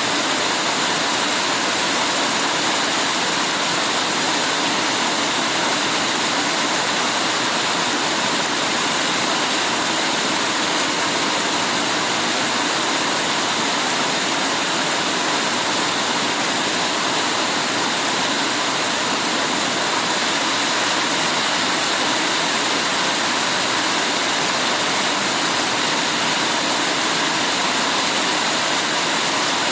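Heavy rain falling in a steady, even hiss with no breaks or single drops standing out.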